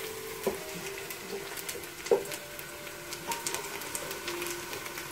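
Chopped onions frying in oil in an aluminium pot, with fine crackling, while a wooden spoon stirs and scrapes the pot; the spoon knocks sharply against the pot about two seconds in.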